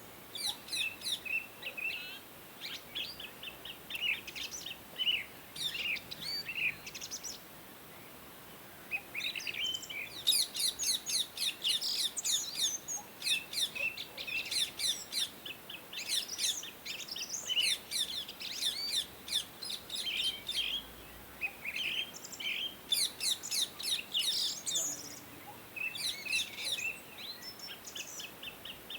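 Indian ringneck parakeets chirping: rapid runs of short, high chirps in bouts, with a brief lull about a quarter of the way in.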